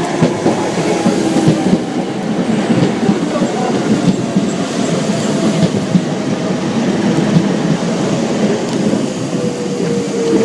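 Docklands Light Railway train pulling into the platform and passing close by, its wheels clattering over the rails. A whine runs through it and slowly falls in pitch as the train slows.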